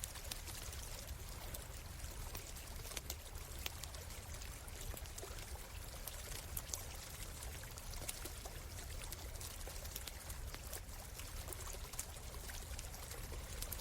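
Stream water flowing and trickling steadily, with a campfire crackling over it in frequent sharp little pops.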